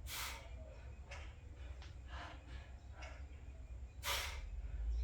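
A man breathing hard during a set of barbell squats: two strong, forceful exhales, one at the very start and one about four seconds in, with fainter, shorter breaths roughly every second between.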